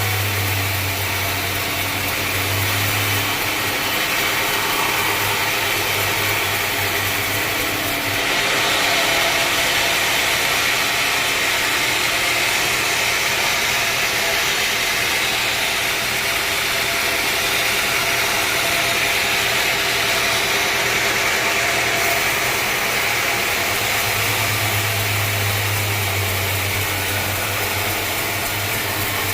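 Sawmill machinery running steadily, with a low hum that drops away for most of the stretch and a louder, brighter hiss from about eight seconds in until about twenty-two seconds.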